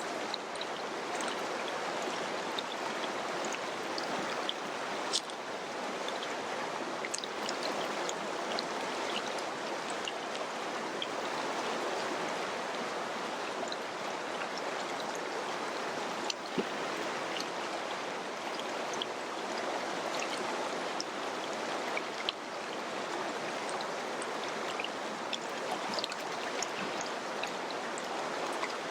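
Mountain river running over rocks: a steady rush of flowing water with small splashes and drips scattered through it.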